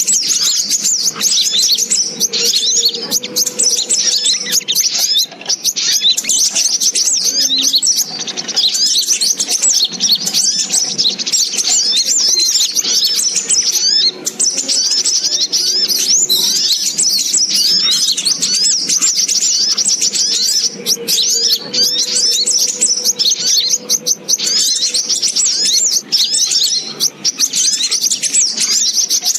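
Spiderhunter (sogok ontong) calls played as a bird-trapping lure: dense, continuous high-pitched chirping and trilling, many calls overlapping without a break.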